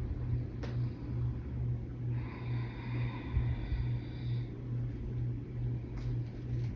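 A person breathing out slowly for about two seconds near the middle, over a steady low hum that pulses about twice a second.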